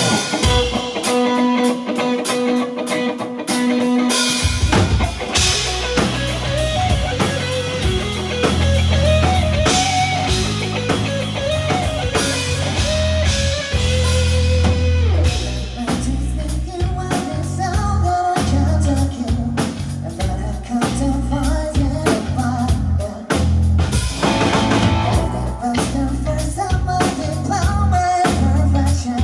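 Live rock band playing: a held guitar chord opens, then drums and bass come in about four seconds in and the full band plays on at a steady loud level.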